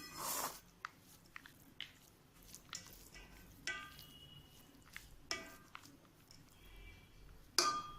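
A spoon mixing cooked rice with lemon-rice paste in a pot: soft scrapes and clicks, with three short ringing clinks against the vessel.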